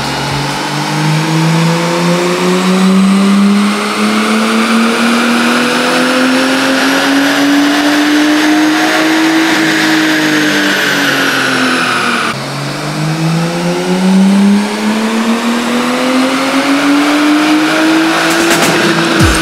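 A Nissan Skyline R34 GTT's RB25DET turbocharged straight-six makes two full-throttle pulls on a chassis dyno. On each, the engine note climbs steadily and then sags back as the factory ECU's speed limit cuts the run off short of 6,500 RPM. The second pull starts abruptly about two-thirds of the way in.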